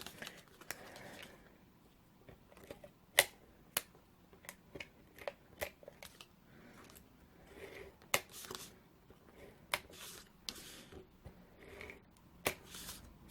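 Light, scattered clicks and soft rustles of card stock being handled as adhesive is put on the box tabs, with a few sharper clicks about 3, 8 and 12 seconds in.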